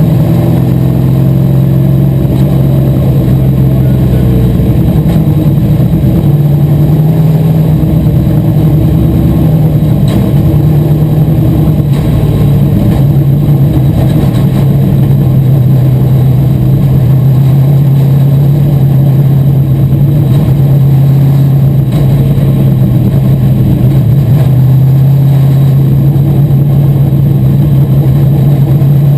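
Asphalt modified race car's engine running loud and steady, its pitch rising and falling only slightly.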